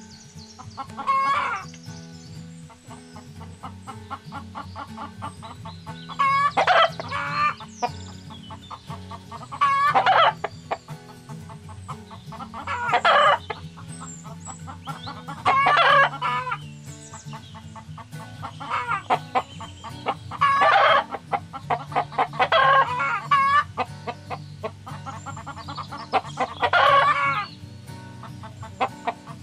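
Chickens clucking and crowing in short separate calls every few seconds, over background music with a steady low bass line.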